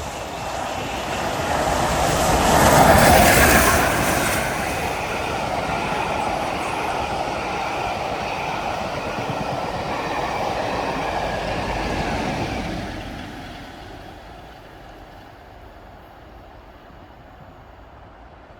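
Peppercorn A1 Pacific steam locomotive 60163 Tornado passing with its train, loudest about three seconds in, followed by the coaches rolling by with wheel clatter and some wheel squeal. The sound fades away after about thirteen seconds as the train recedes.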